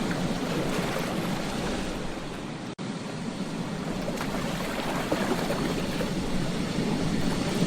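Ocean waves washing onto a beach in a steady rush of surf that slowly swells and eases. The sound cuts out for a split second a little under three seconds in.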